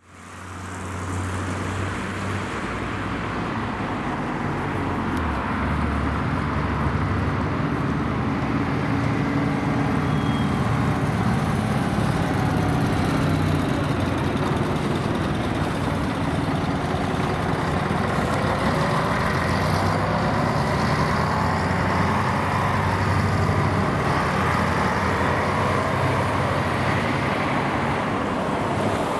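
MAN A23 NG313 articulated city bus's engine running steadily, with a few faint rising and falling whines in the second half.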